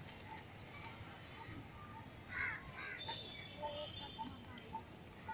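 Birds calling at a lake: a harsh, caw-like call about two and a half seconds in, with a few fainter calls after it, over a faint short chirp repeated about twice a second.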